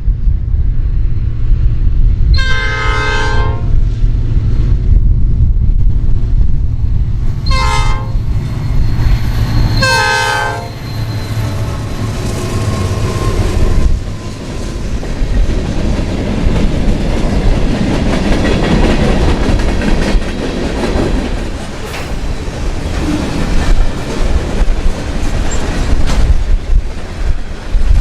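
Diesel locomotive's air horn sounding three blasts, a long one and then two shorter ones, over the low rumble of the engine, followed by the train's wheels rolling and clattering past on the rails.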